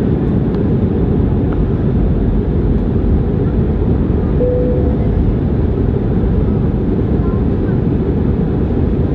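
Steady airliner cabin noise in flight: engine and airflow noise heard from inside the passenger cabin, deep and even, with a brief faint tone about four and a half seconds in.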